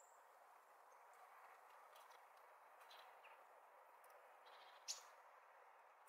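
Faint, scattered short chirps and clicks from small garden birds at a feeder over a steady low hiss, with one sharper, louder note or click about five seconds in.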